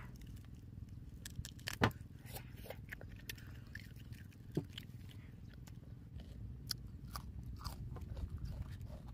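A person biting and chewing roast chicken close to the microphone: scattered crunches and wet mouth clicks, the loudest about two seconds in, over a steady low hum.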